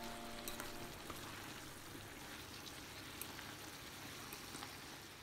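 Sliced chayote sizzling faintly in a stainless pan on an induction cooktop as it is stirred with chopsticks, with a few light clicks of the chopsticks against the pan.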